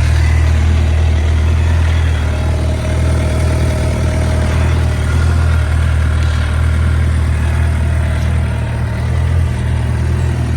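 2011 Suzuki GSX-R750's inline-four engine idling steadily.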